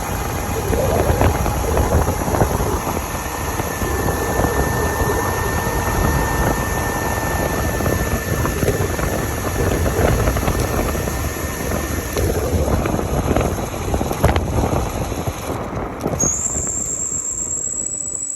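Razor RSF650 electric mini motorcycle running in its second speed setting: a steady high motor whine over a continuous low rushing rumble, the rumble thinning out near the end.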